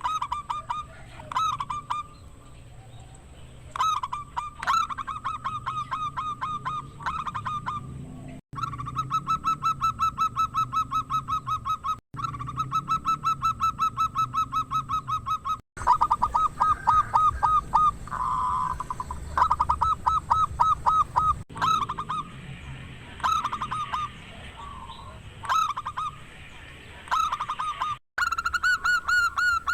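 Zebra dove (perkutut) cooing in long, fast runs of short repeated notes, in bouts separated by brief pauses. The audio cuts out abruptly several times, and a faint steady high whine runs underneath.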